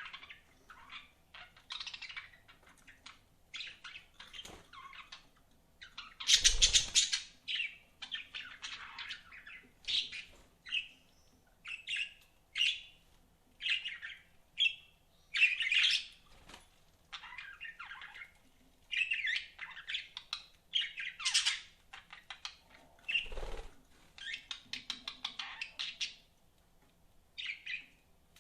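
Budgerigars chirping and chattering in quick, high, short calls with barely a pause, the loudest burst about six seconds in. Two brief low thumps sound along the way.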